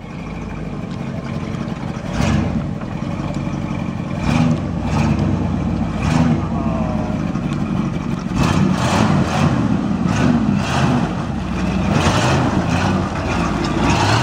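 1975 Ford F100 pickup's engine revving in repeated surges as the truck is driven through a mud hole.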